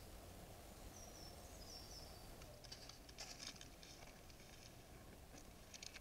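Near silence, with a faint high bird call about a second in, then several short bursts of faint clicks and rustles in the second half.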